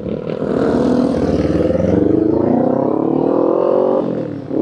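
Kawasaki Z400 parallel-twin motorcycle engine and exhaust pulling hard under acceleration, the revs climbing steadily; just after four seconds the revs and loudness drop briefly for a gear change before it pulls again.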